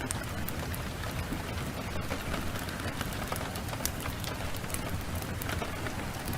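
Heavy, steady rain, with a wood fire crackling in many short sharp pops scattered through it.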